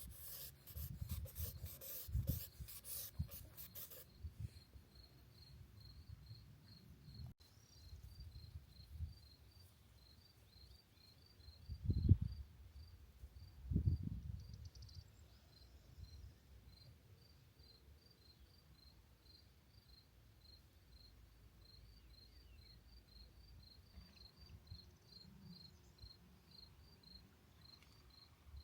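Drawing strokes scratching on sketchbook paper in a quick run for the first few seconds, over a cricket chirping steadily in short, even pulses. Two soft low bumps of handling come around the middle.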